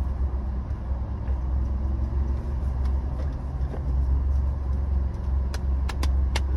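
Car engine idling while parked, a steady low rumble heard inside the cabin, with a few sharp clicks near the end.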